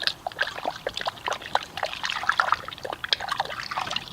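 Liquid pouring and gurgling into the foam cannon bottle in short, irregular bubbly splashes, as the car soap and water mix is made up.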